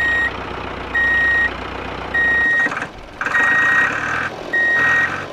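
Reversing alarm sounding: a single high beep about half a second long, repeating about once every second and a bit, over steady vehicle engine noise, signalling that the tractor and trailer are backing up.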